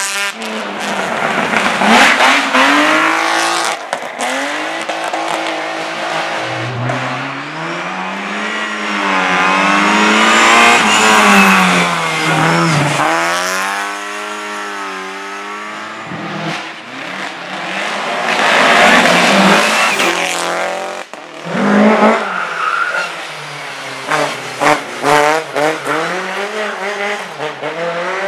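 Race car engines at high revs, their pitch sweeping up and down repeatedly as the cars pass and change gear. Near the end there are choppy on-off bursts of engine note.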